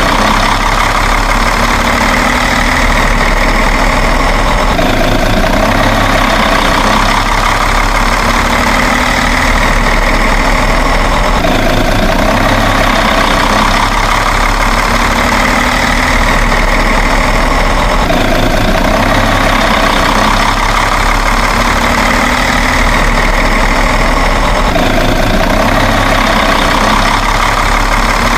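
A steady, loud truck-engine idling sound that repeats in an even loop about every seven seconds, like a looped engine sound track.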